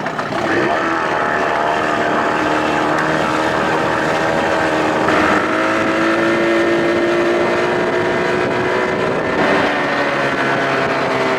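2000 Johnson 25 hp outboard motor throttling up from idle and running at speed, the pitch climbing slowly, with a brief dip about nine and a half seconds in.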